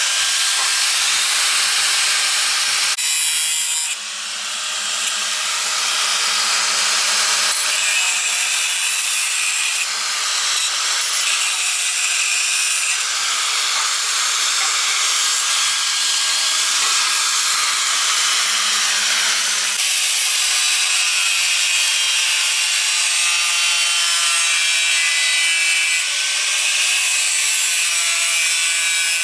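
A power tool, most likely an angle grinder, grinding through iron bars: a steady, loud, harsh grinding noise with a faint whine. The sound shifts abruptly about 3, 7.5 and 20 seconds in.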